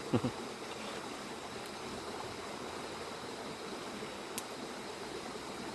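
Steady rush of river rapids: an even wash of flowing water. A brief sharp click comes a little over four seconds in.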